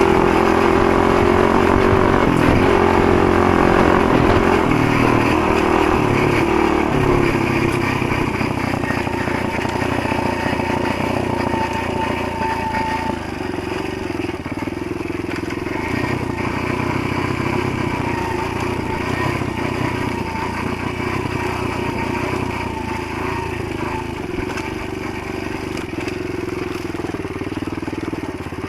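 Motoland GF125 E pit bike's 125 cc single-cylinder four-stroke engine running under way, with more throttle in the first several seconds, then easing to a steadier, slightly quieter note.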